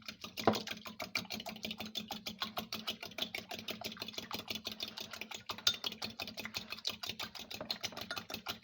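Eggs being whisked with a fork in a bowl: a fast, even clicking of the fork against the bowl, about nine or ten strokes a second, over a steady low hum.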